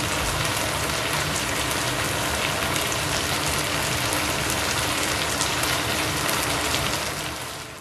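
Fried noodles sizzling steadily in a hot wok, fading out near the end.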